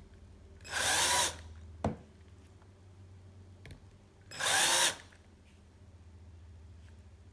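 Small power drill run in two short bursts, about three seconds apart, drilling into a vintage quick-release skewer; a sharp click comes just after the first burst.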